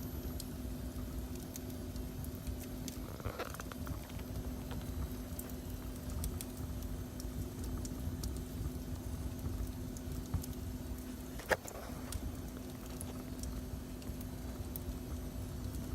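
Wood fire burning in a fireplace, with scattered small crackles and one sharper pop about eleven seconds in, over a low rumble and a steady hum.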